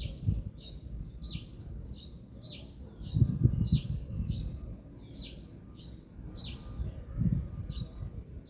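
A songbird repeats a short, high, downward-slurred call a little under twice a second, over wind gusting on the microphone as a low rumble that swells about three seconds in and again near the end.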